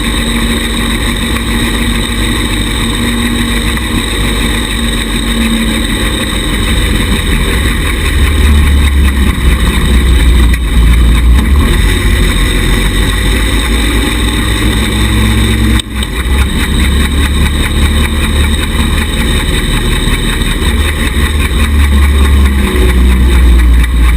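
Small 110cc buggy engine running, its low rumble growing louder about a third of the way in, dipping briefly about two-thirds through, and rising again near the end.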